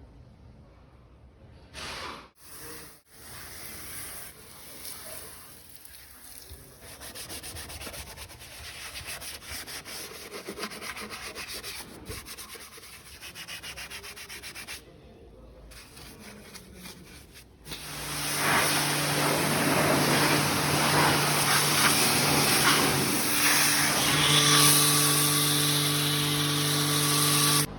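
Brush scrubbing over an engine bay, a rapid rubbing. About two-thirds through, a much louder steady spraying hiss with a low steady hum takes over, like a pressure washer rinsing the engine.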